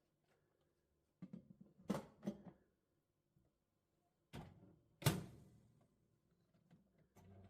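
A few separate knocks and thuds of objects being handled, the loudest about five seconds in with a short ringing tail.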